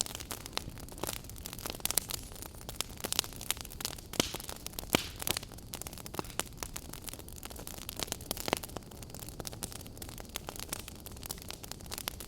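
Log fire burning: irregular sharp crackles and pops of burning wood over a steady hiss, with a few louder pops about 5 and 8.5 seconds in.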